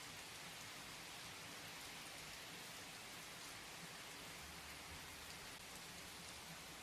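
Steady, quiet rain falling: an even hiss with faint scattered drops.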